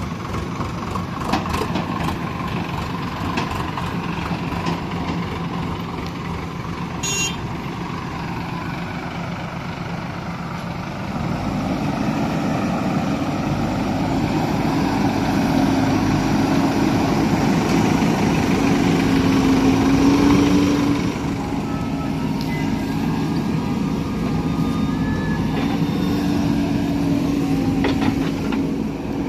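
JCB 3DX backhoe loader's diesel engine running steadily, then revving up under load from about eleven seconds in with a strong droning whine, easing off a little after twenty seconds and pulling hard again near the end. A short high beep sounds about seven seconds in.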